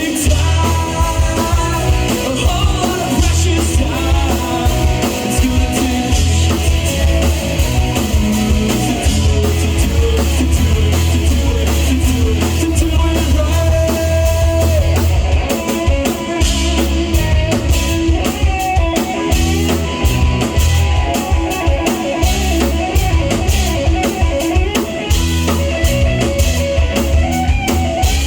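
Rock band playing live and loud: a drum kit and guitars driving a steady beat, with singing.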